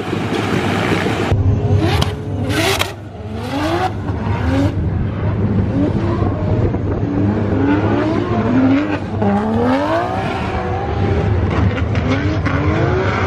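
Competition drift cars on track, engines revving hard with the pitch repeatedly climbing and dropping back as the drivers work the throttle, over a steady rush of noise.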